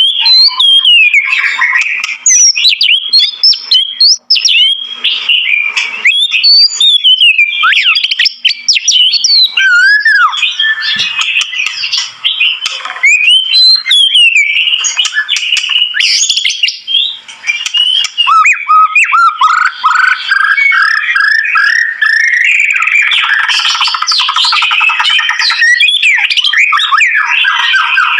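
White-rumped shama (murai batu) in full, loud song: a near-continuous stream of whistled notes sliding up and down in pitch, with a run of quick, short repeated notes about two-thirds of the way through.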